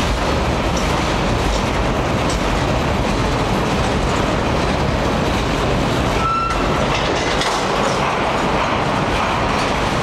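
Freight train cars rolling past close by: a loud, steady rumble of steel wheels on the rails with clickety-clack. A brief high squeal about six seconds in.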